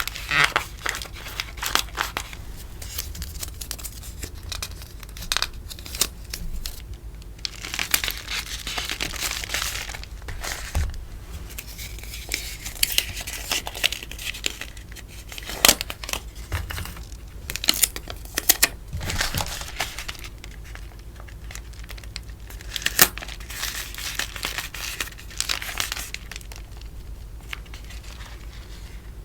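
Sticker packaging being handled and wrapped: close-up rustling and crinkling of paper and plastic that comes and goes in stretches, with a few sharp clicks or taps.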